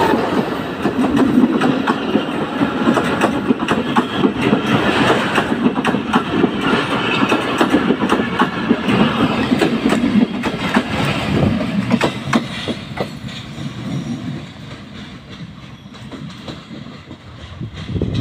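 Passenger train coaches passing close at speed, their wheels clattering over the rail joints. The noise dies down over the last few seconds as the end of the train moves away.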